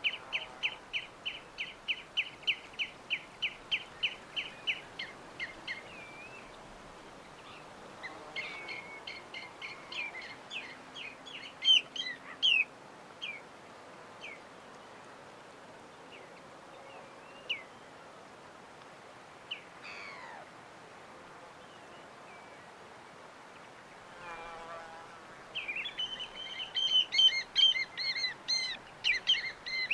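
Birds chirping: a fast, even run of repeated high chirps at the start, scattered single calls in the middle, and dense overlapping chirping near the end, over a faint steady background hiss.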